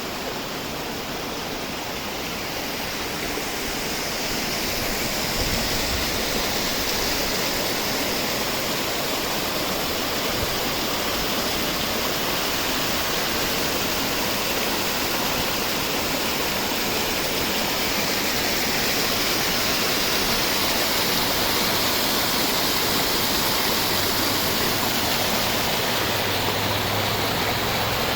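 Guadalmedina river flowing in a steady rush of water, getting a little louder about four seconds in.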